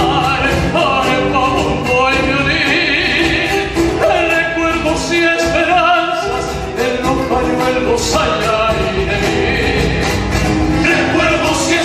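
Folk song: a voice singing over instrumental accompaniment with a steady beat.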